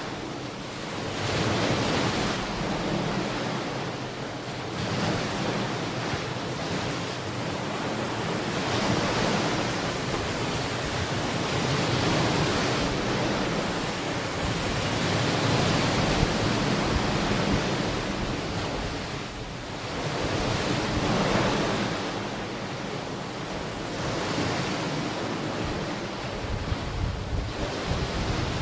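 Ocean waves washing onto a beach, the surf swelling and ebbing every few seconds, with some wind noise on the microphone.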